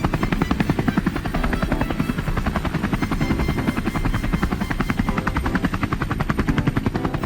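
Helicopter rotor chopping: a steady train of rapid, even blade thuds, roughly nine a second.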